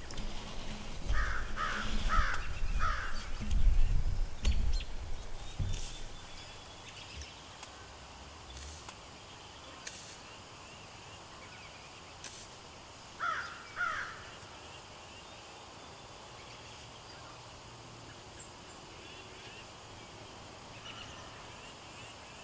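A crow cawing, four quick caws in the first few seconds and two more about thirteen seconds in. A low rumble sits under the first six seconds and is the loudest part.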